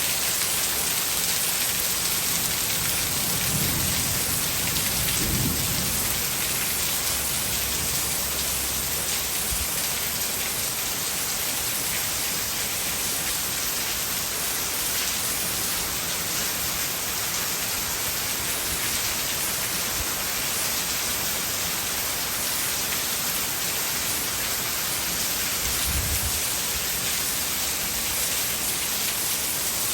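Heavy tropical rain pouring down steadily, a dense even hiss of rain on surfaces. Brief low rumbles come in a few seconds in and again near the end.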